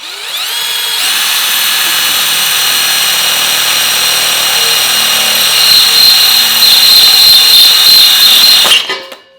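A cordless power tool's motor spinning up to a high, steady whine, working on the metal of an exhaust flange to enlarge a hole. It gets louder about halfway through, then is switched off near the end and winds down.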